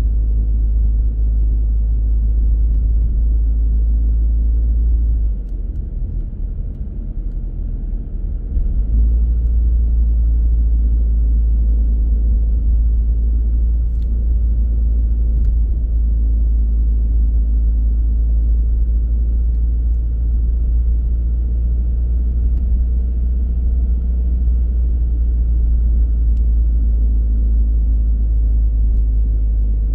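Car driving along a road: a steady low rumble of engine and tyres, which eases for about three seconds around five seconds in.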